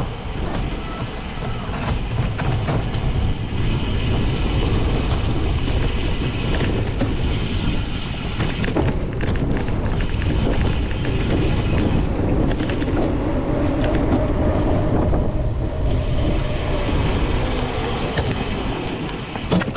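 Steady rush of wind buffeting the microphone of a camera riding on a racing cyclocross bike, with the bike rattling and clattering over rough, bumpy ground.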